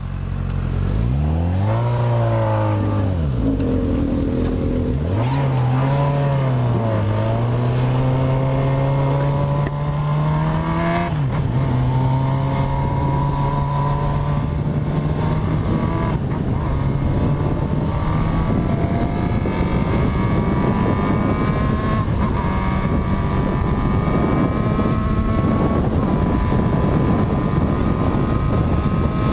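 Motorcycle engine revved twice, then pulling away and accelerating through the gears. The engine note climbs steadily, with a short dip at each shift, roughly every five seconds, while wind noise builds with speed.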